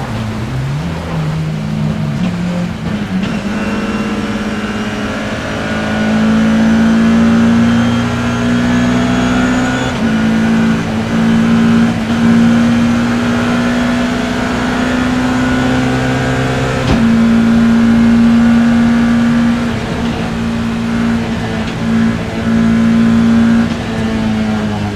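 BMW E30 M3's four-cylinder engine under load, heard from inside the race car: low and uneven for the first few seconds, then climbing steadily through the revs, with quick drops in pitch at upshifts about ten and seventeen seconds in and brief lifts off the throttle near the end.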